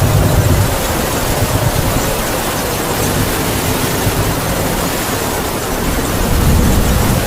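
Heavy rain falling steadily with wind howling over it in a faint, slowly wavering tone. Low gusts swell up near the start and again near the end.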